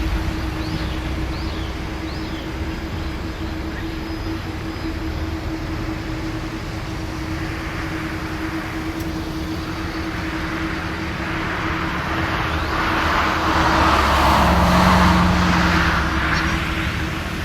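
Jet airliner engines swelling to a loud rush about two-thirds of the way through, then fading, over a steady low hum and rumble. A few brief bird chirps come early on.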